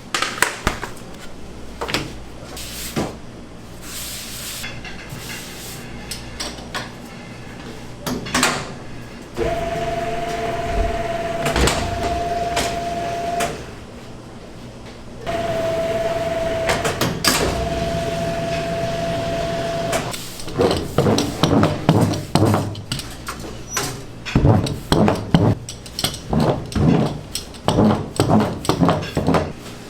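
Bakery kitchen work: knocks and clatter of utensils and equipment, then a machine running with a steady hum twice for about four seconds each. Near the end comes a run of quick, uneven knocks and scrapes.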